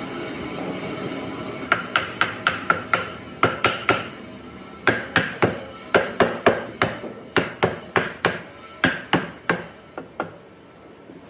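Hammer blows landing in quick runs of about three to four a second, each a sharp strike with a short ringing note. A steady hum sounds for the first couple of seconds, before the blows begin.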